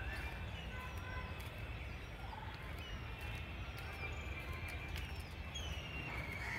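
Many small birds chirping, short whistled calls rising and falling and overlapping one another, over a steady low rumble.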